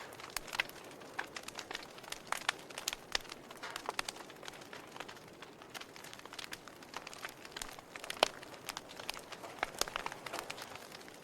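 Wood fire burning in a fireplace: irregular sharp pops and snaps over a soft steady hiss, with one louder pop about eight seconds in.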